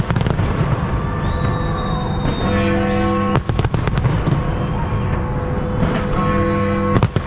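Fireworks display bursting over loud music with long held notes. Clusters of sharp bangs come near the start, about three and a half seconds in, and again near the end.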